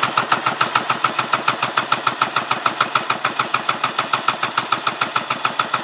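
Polaris SL 780 three-cylinder two-stroke engine being cranked over for a compression test on its PTO-side cylinder, with an even rhythmic chuffing of about eight to nine pulses a second. The cylinder builds 149 psi, in line with the other two at 150: healthy, even compression.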